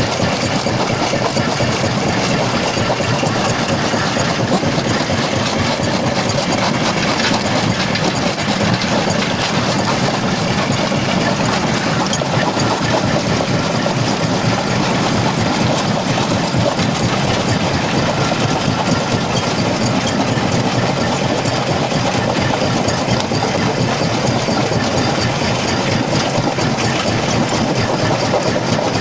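Stone jaw crusher running and crushing rock: a steady, loud, dense mechanical clatter and rumble that keeps up without a break.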